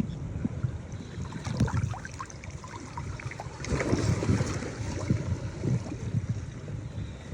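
Shallow seawater sloshing and splashing as a shell scoop is worked through the sandy bottom. The swishes come irregularly and are busiest around the middle.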